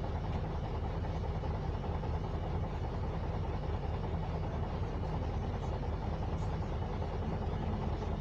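YaMZ-236M2 V6 diesel engine of a MAZ 104 city bus running steadily under way, with a low drone and road noise, heard from inside the passenger cabin.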